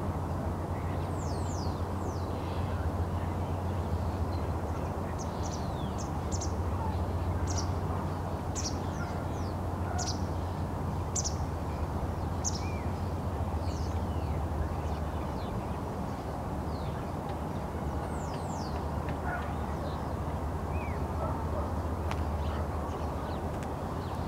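Birds calling in short, high, falling chirps, scattered through the whole stretch, over a steady low rumble.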